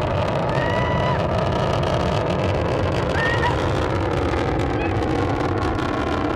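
Space rocket's engines during launch, a loud, steady, dense rumble with no break.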